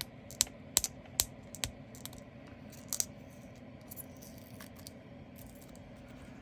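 Leftover diamond painting drills, tiny resin beads, being tipped into a small plastic storage container: a few sharp, separate clicks and tinkles in the first half, then only faint room hiss.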